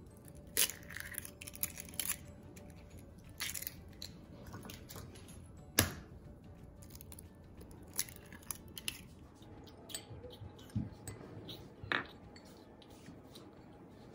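Eggs being cracked by hand over a ceramic bowl: scattered sharp taps and crackles of eggshell, the loudest about six seconds in. Near the end, a metal spoon knocks against the bowl.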